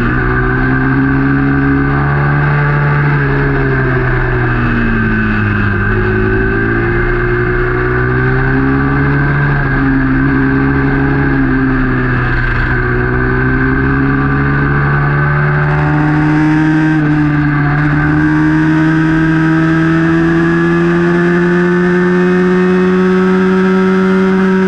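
A small racing motorcycle's engine heard from on board the bike, running hard throughout. Its pitch dips and climbs again several times as the rider eases off and gets back on the throttle through the corners, then rises steadily on the straight near the end. A hiss of rushing air joins about two-thirds of the way through.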